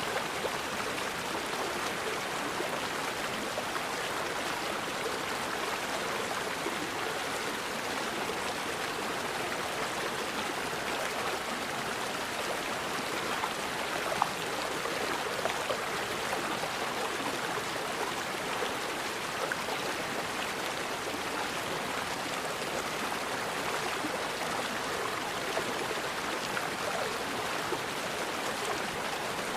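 Forest river flowing steadily over rocks, a continuous rushing and babbling of water, with one brief louder splash about halfway through.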